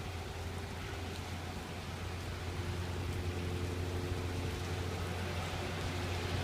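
Steady rain falling during a thunderstorm, an even hiss over a constant low hum.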